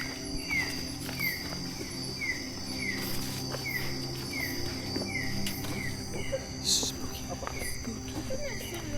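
Night-time tropical rainforest insect chorus: a steady high-pitched insect trill, with a short falling chirp repeated over and over, roughly one or two a second.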